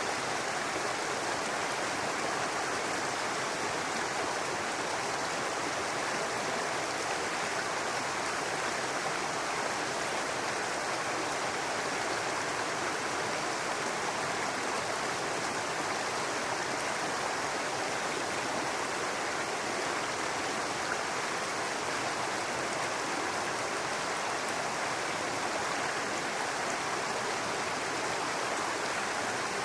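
Brook water running and babbling steadily over rocks, an even rushing with no breaks.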